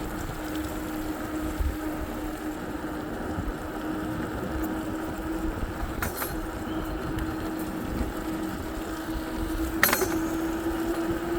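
Riding noise from a moving vehicle: steady road and wind rush with a constant hum. A light clink comes about six seconds in, and a sharper rattle follows near the end.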